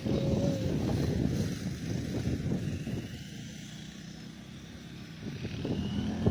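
Airplane engine noise, a low rumble that fades about halfway through and swells again near the end.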